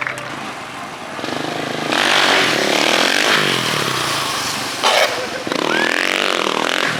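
A car engine revving hard, its pitch rising and falling, with a short loud burst about five seconds in.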